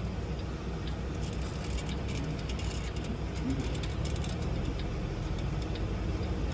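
Semi truck's diesel engine running low and steady while the truck creeps forward, with scattered light clicks over it.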